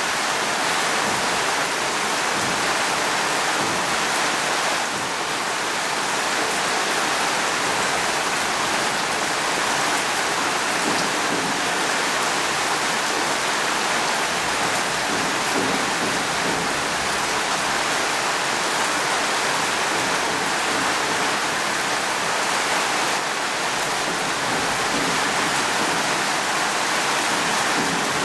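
Steady rain falling, an even hiss with no breaks or thunder claps.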